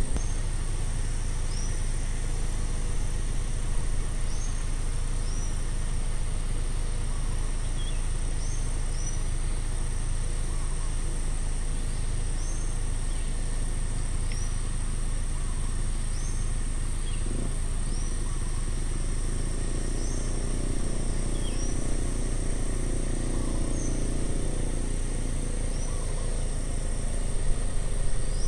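Outdoor ambience: a steady high-pitched insect drone, with a bird giving short chirps every second or two, often in pairs, over a constant low rumble. A faint low hum swells in the second half.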